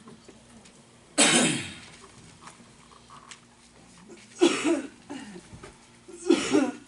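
A person coughing three times, a couple of seconds apart.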